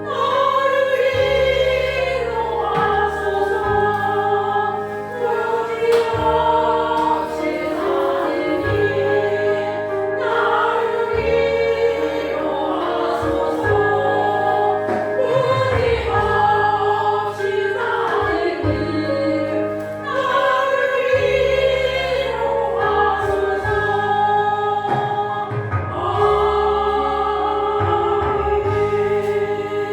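Church choir singing a sacred anthem in parts, with a steady low instrumental accompaniment beneath.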